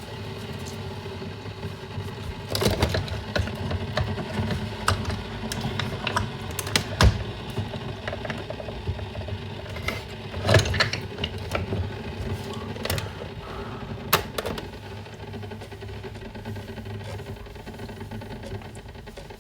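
Kitchen breakfast-making sounds: scattered knocks, clicks and clatters of utensils and dishes, a few of them sharp and loud, over a steady low hum.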